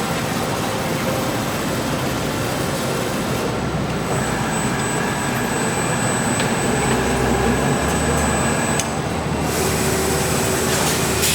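Steady noise of factory machinery running, with a low hum underneath; the high hiss thins out for several seconds in the middle, then returns.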